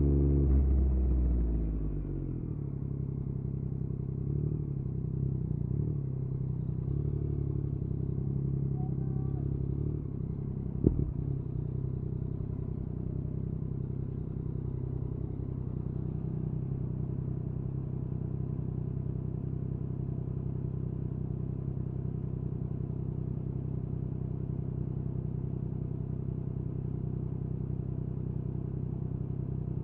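Yamaha MT-09's three-cylinder engine with an Akrapovic exhaust, its note falling as the bike slows in the first two seconds, then idling steadily. A single sharp click about eleven seconds in.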